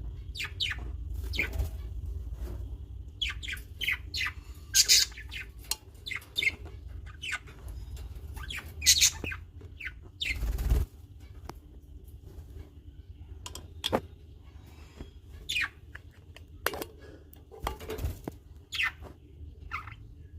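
Small birds chirping, short sharp chirps at irregular intervals, over a low rumble that cuts off about halfway through.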